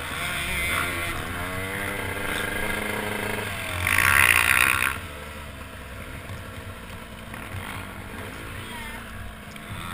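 Motocross bike engine at low revs, heard through a helmet-mounted camera, its pitch dipping and rising over the first few seconds. A loud burst of rushing noise about four seconds in, then the engine runs quieter at low revs.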